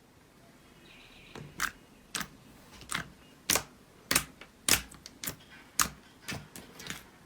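Slime giving a run of short, sharp popping clicks, about two a second, beginning about a second and a half in.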